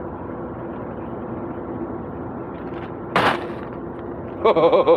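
A vehicle engine running with a steady drone, broken a little after three seconds by one short, loud burst of noise. A pulsing musical pattern starts near the end.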